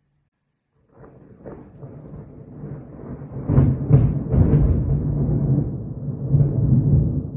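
Thunder rolling: a low rumble begins about a second in, builds to its loudest in the middle with a few sharper cracks, then rumbles on.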